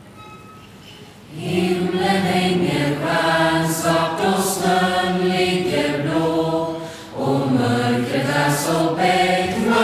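Choir singing a Swedish Lucia song in Swedish, coming in about a second in after a quiet room, with a short break for breath about seven seconds in.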